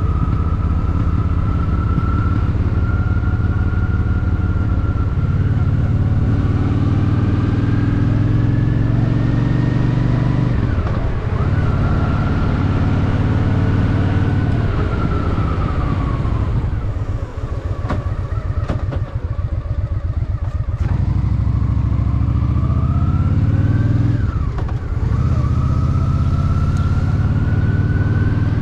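Honda Shadow VT750's V-twin engine running under way, its pitch climbing as it accelerates, with a short drop and recovery at gear changes about 11 seconds and 25 seconds in. In the middle the engine eases off to a slow, low running for a few seconds, then picks up again.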